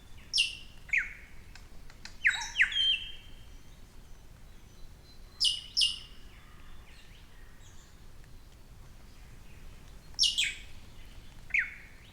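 A forest bird calling in short phrases of quick, sharp notes that fall steeply in pitch. The phrases come four times, a few seconds apart.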